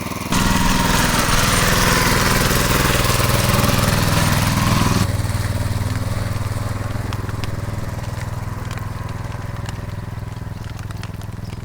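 Motoblock (walk-behind tractor) engine running. It gets sharply louder just after the start and stays loud for about five seconds, then settles to a lower, steady drone that slowly fades.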